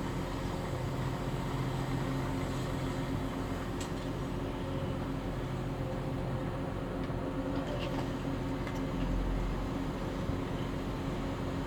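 Heavy diesel engine of a CAT 330F hydraulic excavator running steadily at constant speed, with a few faint clicks.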